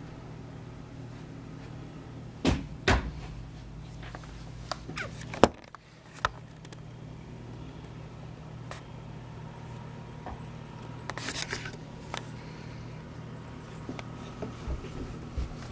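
A few sharp knocks and clicks, the loudest about five and a half seconds in and a quick cluster near the middle, over a steady low hum.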